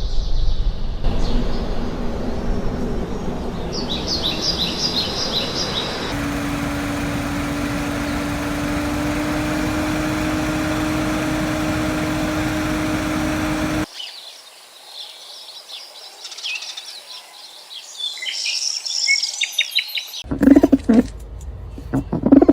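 Small birds chirping in short high bursts over a noisy outdoor background, with a steady low hum through the middle stretch. Low repeated bird calls begin near the end.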